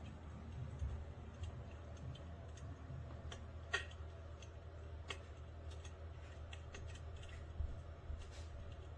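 Faint, irregular crackles and pops from the electric fireplace insert's built-in simulated fire-crackling sound, over a steady low hum.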